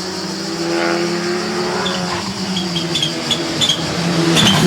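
Rally car engine running hard as the car approaches, growing louder, with a few short ticks in the second half.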